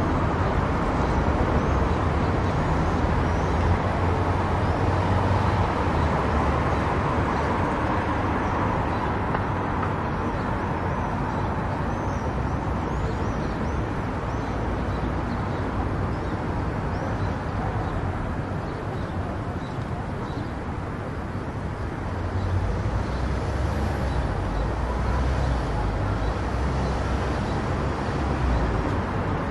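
Car driving at highway speed: steady tyre and wind noise over a low rumble.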